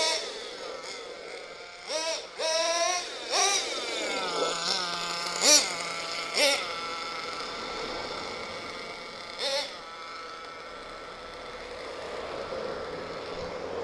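Small .21 nitro engine of an HSP 1/8-scale RC monster truck running and revving in several short bursts of throttle, the pitch rising sharply with each, with steadier running in between.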